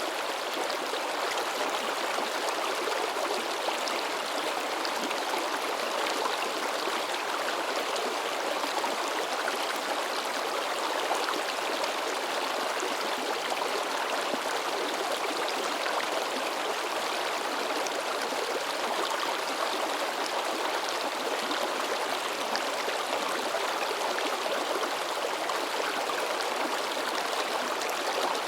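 Shallow mountain stream babbling and splashing over rocks, a steady rushing of water.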